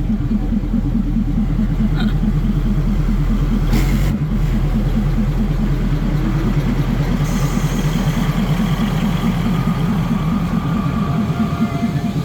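Diesel railcar engine of a Maeklong Railway train running at low speed, a steady low pulsing throb.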